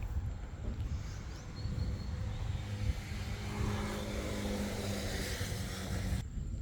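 A motor vehicle's engine running, a steady hum over a low rumble, which cuts off suddenly about six seconds in.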